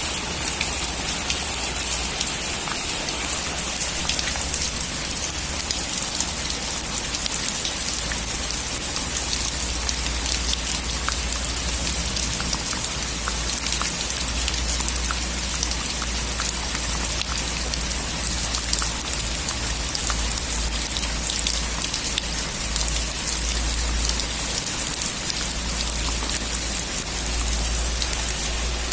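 Heavy rain falling steadily on a metal roof, with many fine ticks of individual drops striking the sheet.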